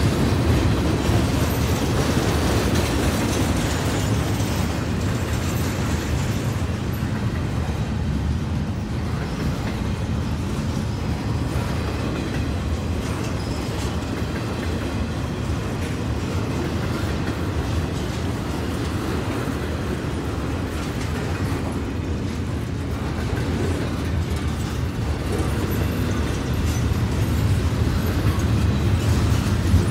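Double-stack intermodal container train rolling steadily past: a continuous low rumble and clatter of freight-car wheels on the rails, growing a little louder near the end.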